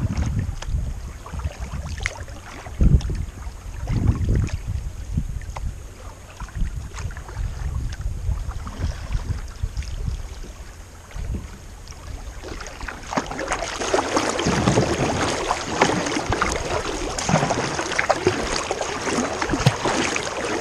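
Kayak paddling on a river. Wind gusts rumble on the microphone in the first half. A little past halfway comes a steady hiss of running water with frequent small splashes.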